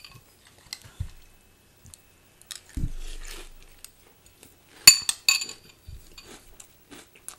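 Metal spoon clinking against a cereal bowl, a few sharp ringing clinks about five seconds in, with quieter crunching of dry Peach Cheerios being chewed.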